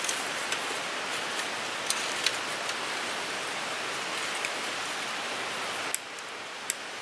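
Wood fire crackling: a steady hiss with scattered sharp pops, two louder ones about two seconds in and another near the end.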